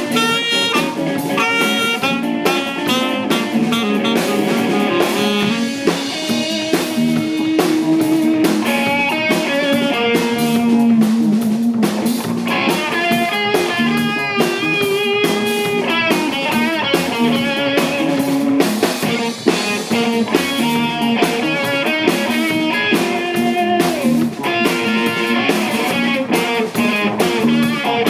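Soul-jazz band playing an instrumental passage, guitar lines to the fore over a drum kit.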